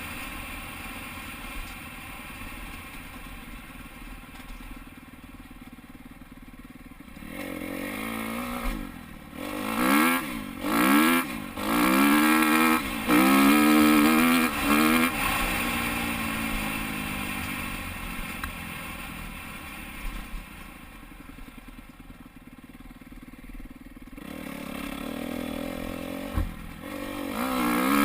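Dirt bike engine running at low throttle, then opened up in several hard bursts with pitch sweeping up and down as the rider accelerates and shifts, easing back off and revving up again near the end.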